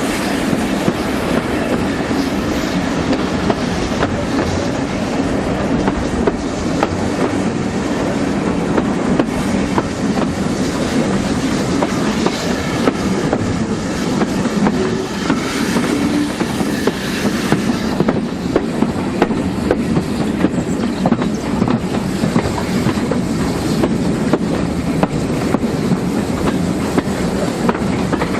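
Heritage steam railway train running steadily along the line: a continuous rumble of the carriages with the irregular clickety-clack of wheels passing over rail joints.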